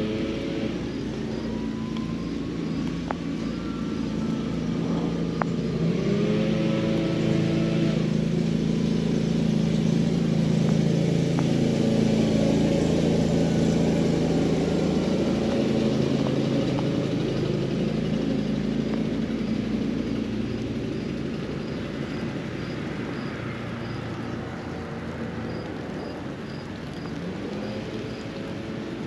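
A motor engine's low hum swells over several seconds and then fades away again as it passes, over a steady hiss of rain. A faint high chirp repeats about twice a second throughout.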